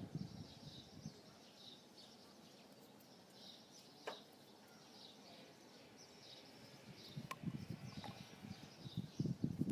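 Small birds chirping in the background, short high calls repeating every half second or so. There is a sharp click about four seconds in and another a little after seven seconds. Uneven low knocks and rustles of handling build towards the end.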